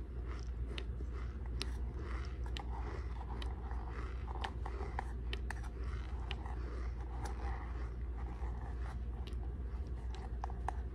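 Close-up chewing of a mouthful of raw cornstarch: irregular crunchy clicks and crackles from the mouth, over a steady low hum.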